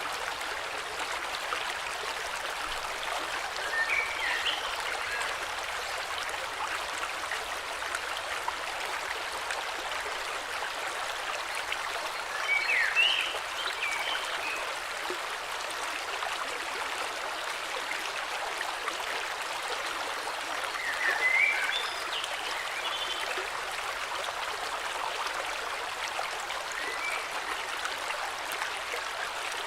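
Steady flowing river, with short bursts of bird chirping four times at intervals of several seconds.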